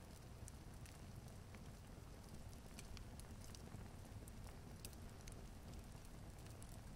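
Log fire crackling quietly: scattered sharp little pops and ticks over a low, steady rumble.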